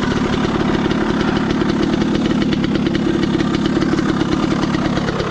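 Dirt bike engine idling steadily with a rapid, even beat.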